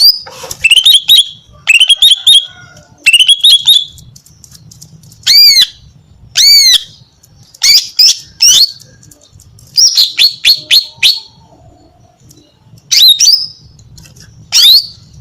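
Female green leafbird (cucak ijo) calling: short, loud bursts of quick, sharp whistled notes, some arching and some sweeping upward, repeated every second or two with a few brief pauses.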